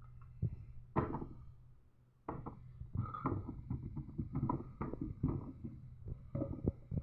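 Fidget toys being handled and put into a bin: a knock about a second in, then a busy run of small clicks, knocks and rattles from about two seconds on, over a low steady hum.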